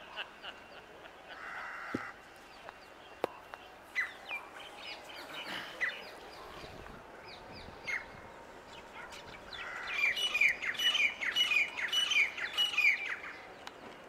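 Small birds chirping, with a dense run of quick, falling chirps about ten seconds in that lasts some three seconds.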